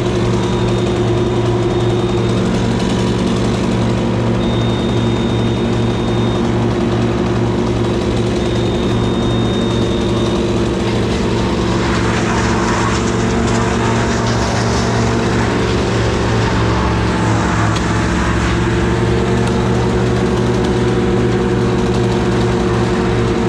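An engine running steadily at an even speed, with a rougher, hissing noise added about halfway through for several seconds.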